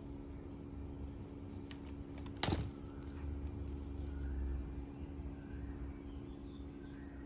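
Small hard objects clinking and being handled: a few light clicks, then one sharp clink about two and a half seconds in, over a steady low hum.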